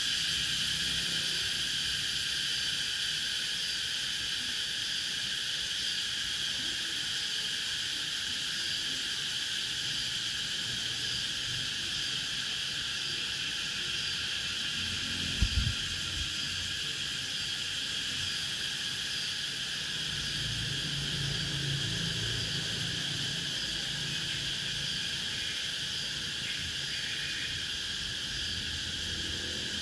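Cicadas singing in a steady, continuous chorus of high buzzing. A brief low thump comes about halfway through.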